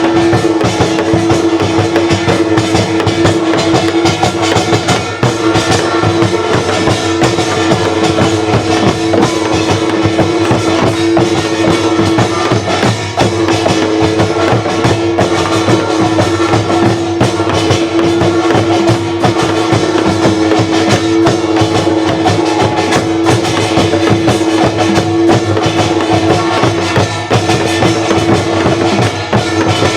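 Korean folk music: drums and other percussion played in a dense, continuous rhythm, over a steady held tone.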